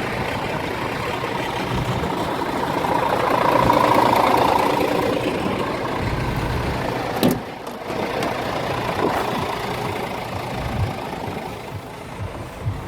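Scania R410 truck's inline-six diesel engine idling steadily, swelling slightly for a moment, with a sharp click about seven seconds in.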